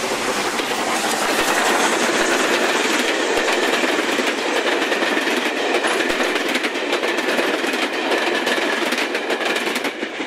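Travelling Post Office mail train passing close by at speed: a steady rush of running noise with the quick clatter of wheels over the rails. The noise builds over the first couple of seconds and eases a little near the end as the last carriage goes by.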